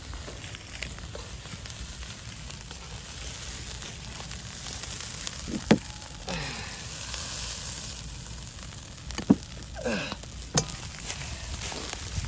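Fried rice sizzling in a 36 cm iron frying pan over a wood fire while it is stirred. Three or four sharp metal knocks and scrapes against the pan stand out in the second half.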